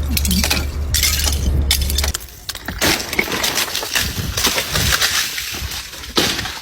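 Ice and packed snow crunching and cracking, a rapid, irregular series of breaking and scraping strokes, as crusted ice is broken off a snowed-in car. A low steady hum runs beneath it and stops about two seconds in.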